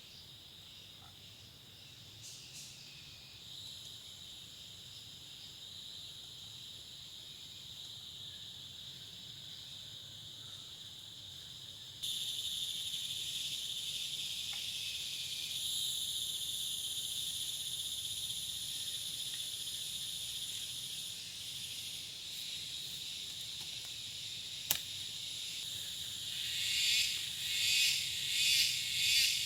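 A steady, high-pitched chorus of insects droning in the forest, growing suddenly louder about twelve seconds in. Near the end, a pulsing call of about one and a half beats a second joins in.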